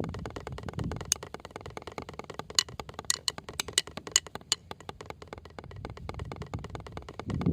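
Drumming: a fast, uneven run of light, clicky taps, with a few sharper accents struck here and there.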